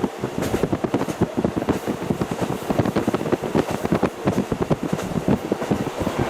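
KiHa 40 diesel railcar running, heard through its fully open window with wind rushing and buffeting in unevenly over the train's running noise.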